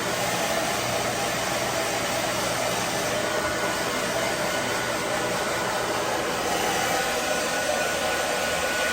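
Hair dryer running steadily on its low, cool setting: an even rush of air with a faint hum in it.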